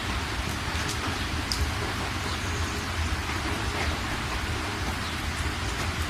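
Steady rain falling, with a few individual drops landing close by and a steady low rumble underneath.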